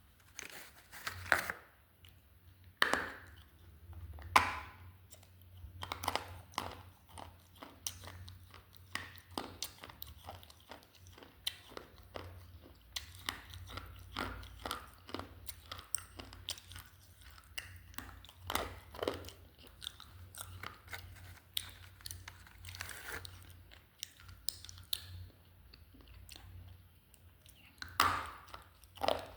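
Close-up crunching and chewing of slate pencils: sharp snaps as pieces are bitten off, the loudest a few seconds in, then dense gritty crunching as the pieces are chewed.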